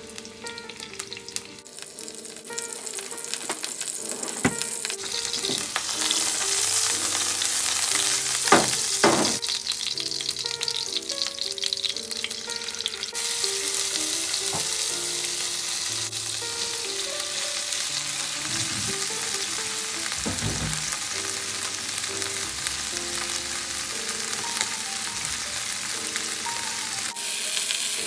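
Chopped garlic frying in oil in a nonstick pan, the sizzle rising over the first few seconds and then holding steady. A few sharp clicks of wooden chopsticks against the pan as the garlic is stirred.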